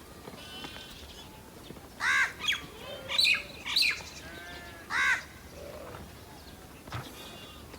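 Crows cawing: about four loud calls between two and five seconds in, with fainter chirps of smaller birds around them.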